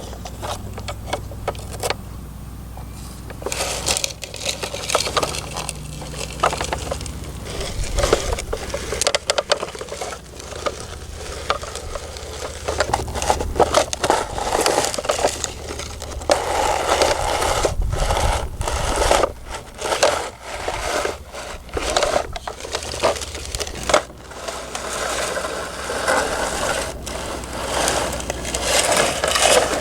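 Tonka toy digger's steel bucket and wheels scraping and crunching through dirt and broken shells, in a run of irregular scrapes, with a low steady hum underneath.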